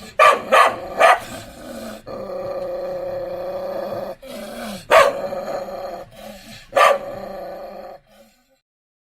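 Dog barking: three quick barks, then a long steady drawn-out cry of about two seconds, then two more single barks; it falls silent about a second before the end.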